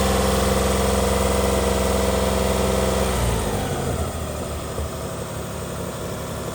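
2004 Mitsubishi Pajero V6 petrol engine idling steadily, then switched off about three seconds in, its tone breaking up and winding down; irregular low noise remains.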